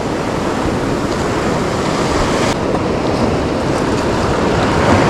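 Ocean surf washing steadily around the shoreline, mixed with wind noise on the microphone.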